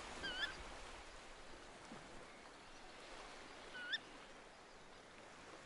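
A bird gives two short calls with a rising upturn, about three and a half seconds apart, over a steady faint wash of outdoor background noise.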